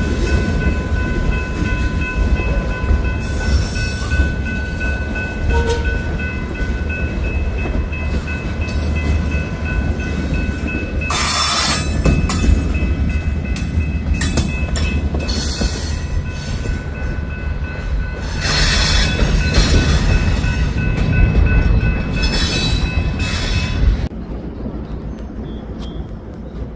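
Freight train rolling past with a heavy low rumble and several steady high-pitched squealing tones from the wheels. Bursts of harsh high-pitched squeal come and go. About 24 seconds in the noise drops off sharply, leaving a quieter rumble.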